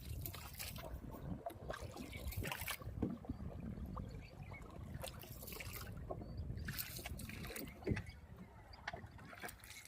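Water lapping and splashing around a small river boat, with scattered knocks, over a low rumble of wind on the microphone.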